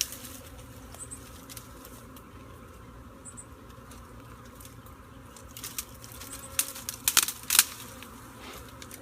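Honeybee swarm buzzing steadily, a low continuous hum. A few sharp crackling knocks land about six to seven and a half seconds in.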